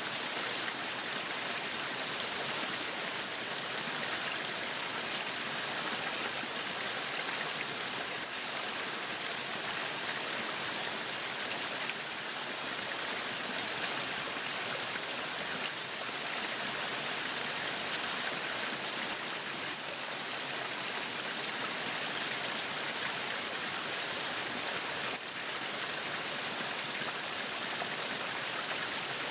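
Meat sizzling steadily on a yakiniku grill: a dense, even hiss that does not let up.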